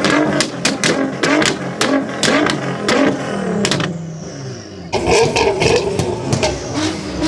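Car engine being revved repeatedly, its pitch rising and falling with each blip of the throttle. Sharp cracks and pops from the exhaust sound through it. There is a brief lull about four seconds in, then the revving picks up loudly again.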